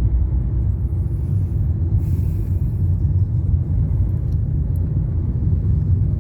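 Steady low rumble of a car's engine and tyres on the road, heard from inside the moving vehicle, with a brief hiss about two seconds in.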